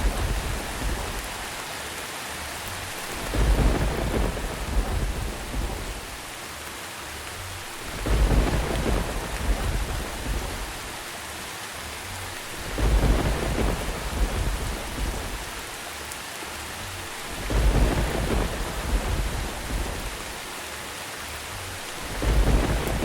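Steady rain with low rolls of thunder, five of them evenly spaced about every four and a half seconds, each swelling and fading over a second or two.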